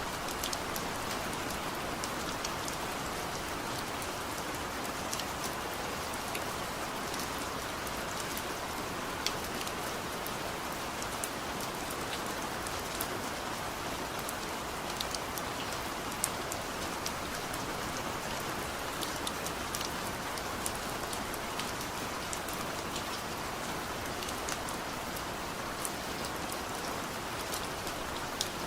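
Heavy rain falling steadily, a dense even hiss with many small distinct drop taps on a surface.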